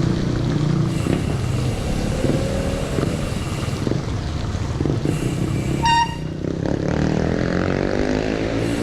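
Road traffic and wind rumble while riding, with a passing motor vehicle whose engine pitch glides near the end. A single short horn toot sounds about six seconds in.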